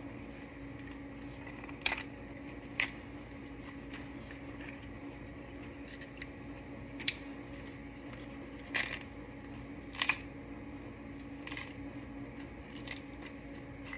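Hands laying torn romaine pieces onto a pile of tortilla chips: scattered light clicks and crackles, about eight in all, over a steady low hum.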